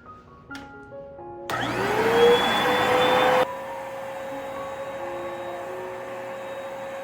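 Hoover Spotless portable carpet spot cleaner switched on: its motor whine rises and settles under a loud rush of suction for about two seconds. The rush drops away suddenly, leaving the motor running with a steady, quieter whine.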